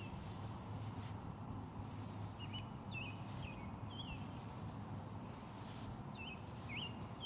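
Small bird chirping: short, quick chirps in a cluster a few seconds in and again near the end, over steady low background noise.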